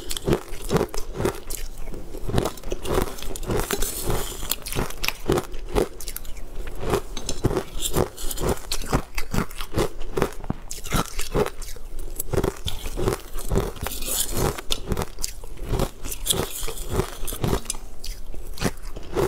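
Close-miked chewing and crunching of a mouthful of green food, in a steady rhythm of about two to three crunches a second.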